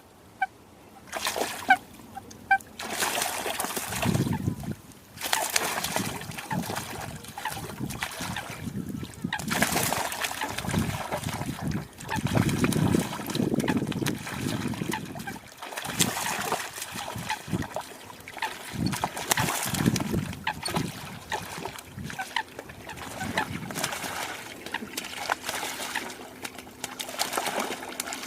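Water splashing and sloshing in irregular bursts, with a few faint short chirps in the first three seconds.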